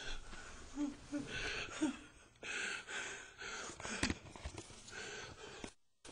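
A man sobbing, with ragged, noisy breaths and a few short whimpers in the first two seconds, and a sharp knock about four seconds in.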